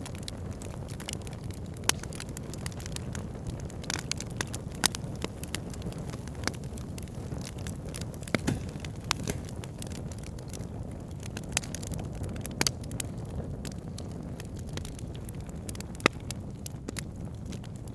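Fire burning in a fireplace: a steady low rumble of flame under frequent sharp crackles and pops, scattered irregularly, the loudest pop about sixteen seconds in.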